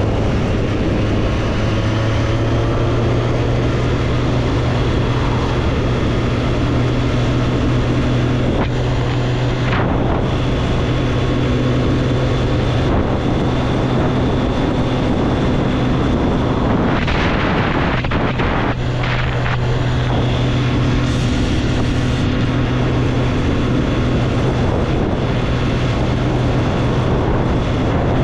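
Triumph Street Triple's inline three-cylinder engine running at a steady cruise on the road, with wind rushing over the microphone. About two thirds of the way through, the engine note breaks off briefly under a burst of rushing noise, then settles back to a steady pull.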